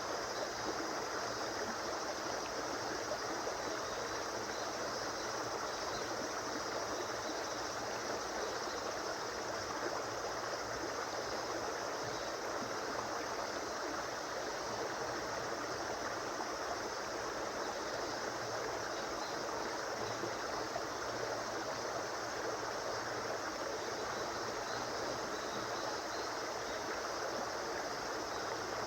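A river or stream flowing: steady rushing and gurgling water with no pauses or changes.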